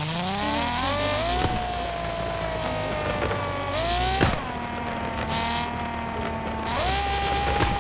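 Car engine accelerating as the car drives off: the engine note climbs over the first second and a half, climbs again and drops sharply about four seconds in at a gear change, then jumps up again near the end.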